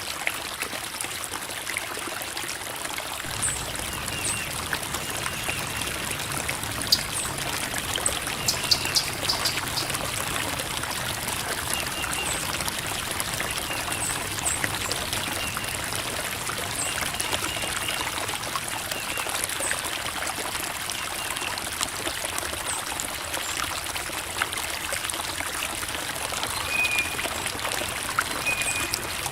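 Creek water flowing and babbling over rocks: a steady rush with many small trickles and splashes through it.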